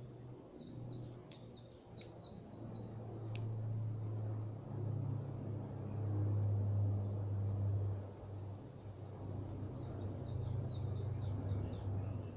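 A small songbird singing twice, each time a quick run of high falling chirps, with a few sharp crackling pops from a campfire. All of it sits over a steady low rumble.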